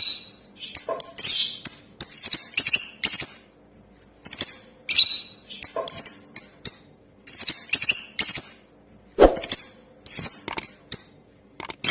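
Lovebird giving rapid, shrill chirps in short bursts with brief pauses between them. There is one sharp knock about three quarters of the way through.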